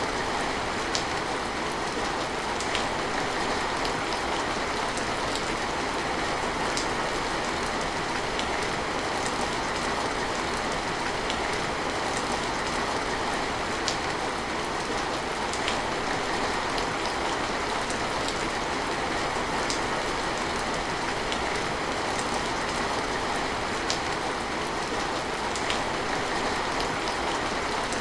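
Steady rain falling, an even hiss with scattered sharper drips landing close by.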